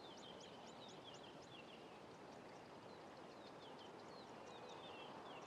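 Faint birdsong: runs of short, high, downward-sliding chirps, about three a second, with brief gaps, over a low steady hiss of background ambience.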